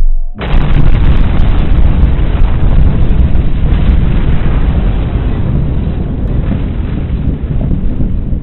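Explosion sound effect: a loud blast sets off suddenly about half a second in, then a long, heavy rumble slowly fades away.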